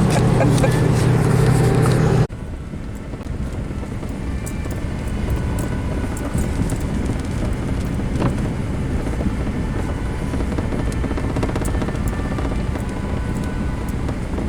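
Music plays for about two seconds and then cuts off suddenly. After that comes the steady low rumble of a pickup truck driving, with faint ticks.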